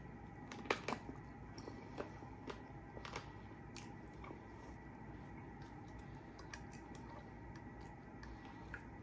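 A person chewing and biting baked chicken: wet mouth smacks and short clicks, the loudest cluster about a second in, then lighter scattered smacks.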